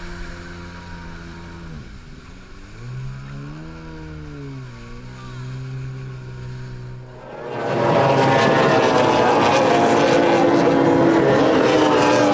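A boat's motor running, its pitch rising and falling as it revs. About seven and a half seconds in, a much louder rushing roar sets in.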